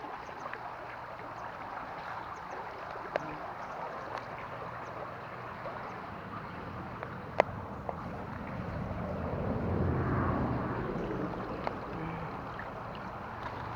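Water running in a small forest stream, with a few sharp clicks; the flow swells louder about two-thirds of the way through.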